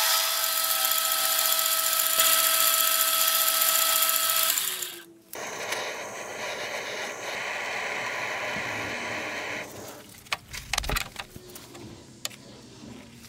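Machine tool cutting the cast metal wheels: a steady run with several high ringing tones that stops suddenly about five seconds in, then a second, noisier steady cutting sound for about four seconds, followed by a few scattered knocks and clicks.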